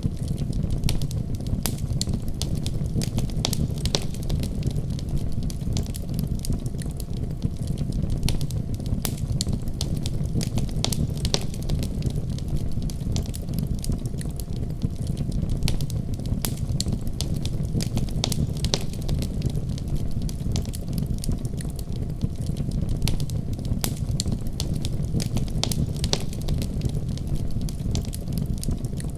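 Wood fire burning, a steady low rumble of flames with frequent sharp crackles and pops.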